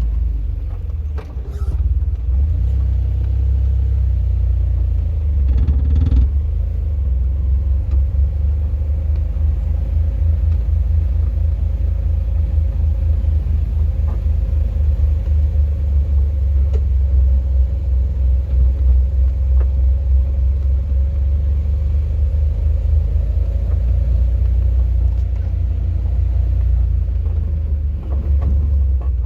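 Steady low rumble of a vehicle driving, with a faint steady hum above it.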